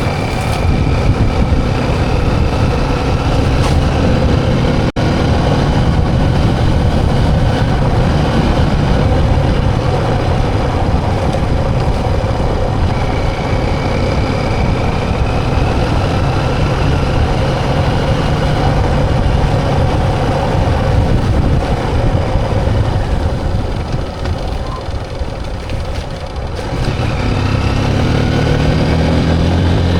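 Motorcycle engine running while riding. It eases off briefly a little past the middle, then rises in pitch as it speeds up near the end.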